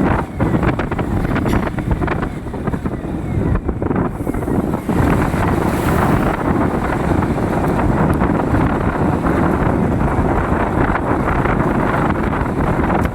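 Wind buffeting the microphone over the low rumble of vehicles on the road.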